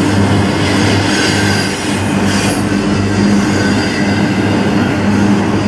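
Double-stack intermodal container cars of a CN freight train rolling past close by: a loud, steady rumble of steel wheels on the rails.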